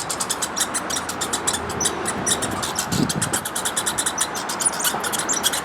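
Steady outdoor rushing noise, of the kind PANN files under vehicle or traffic, with a fast run of short high clicks, several a second.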